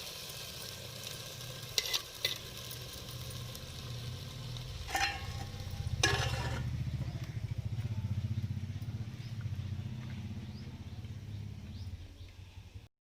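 Chicken pieces sizzling as they fry in a pan of spiced oil for a curry, with a spoon clicking against the pan a few times as they are stirred. A steady low rumble takes over in the second half as the sizzle dies down.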